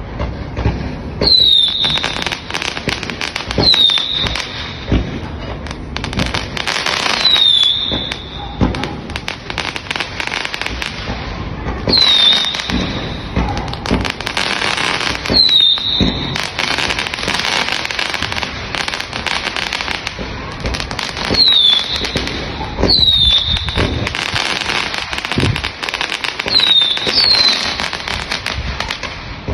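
Fireworks display going off: continual crackling and repeated bangs, with about eight short falling whistles spread through it.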